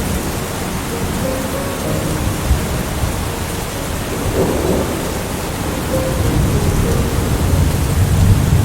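Steady heavy rain with low rolling thunder rumbling beneath it, the rumble building toward the end.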